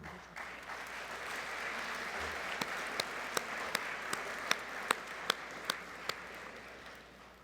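Audience applauding, building up quickly and fading out near the end, with a run of sharp, louder single claps through the middle.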